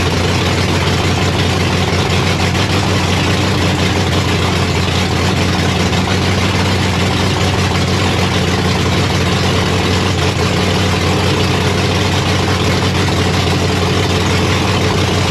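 Big-block Chevy V8 with a ProCharger F3-121 supercharger idling steadily, heard from inside the car's cabin.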